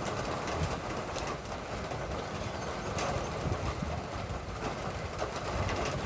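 Light rain falling steadily: an even hiss with scattered ticks of drops.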